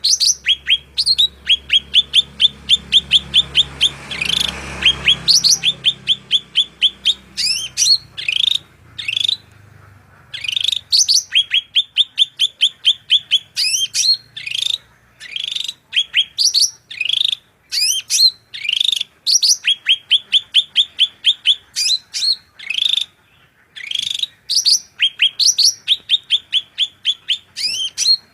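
A songbird singing in rapid runs of short, sharp rising chirps, about three or four a second, in phrases broken by brief pauses.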